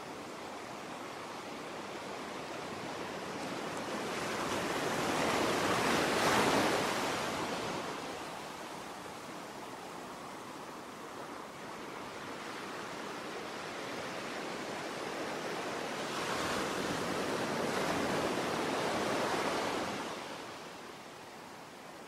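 Ocean surf: waves rolling in and washing out, the noise building to two slow swells and then falling away.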